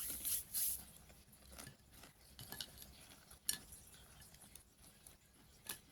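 Faint crackles and scattered clicks of crunchy potato chips being chewed and handled, with a couple of sharper clicks later on.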